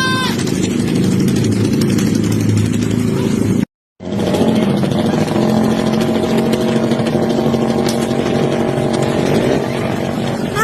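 Motorcycle with a loud, open aftermarket exhaust running steadily. The sound cuts out completely for a moment about four seconds in, then carries on.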